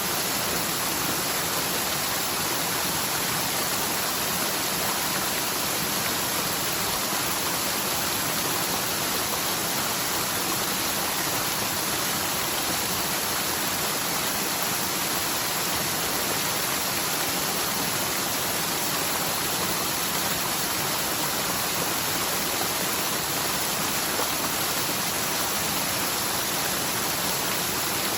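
Steady rush of a forest mountain stream running high, swollen by a typhoon's heavy rain.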